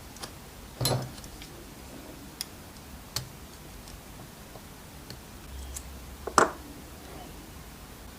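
Scattered sharp clicks and knocks, about eight over the stretch, from small tool parts being handled and set down on a workbench. The loudest comes a little after six seconds in.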